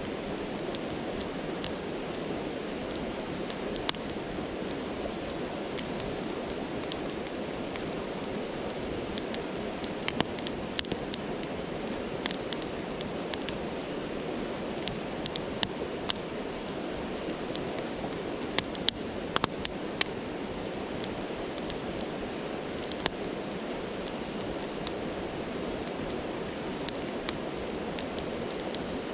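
Campfire crackling with irregular sharp pops, over the steady rush of a stream.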